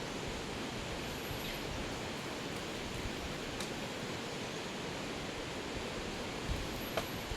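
Steady, even rushing outdoor noise with a faint tick or two and a sharp click near the end.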